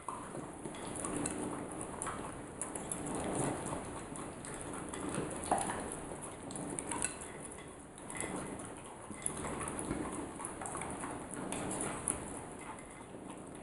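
Cat suckling on a dog, a quick irregular run of small wet sucking and smacking clicks.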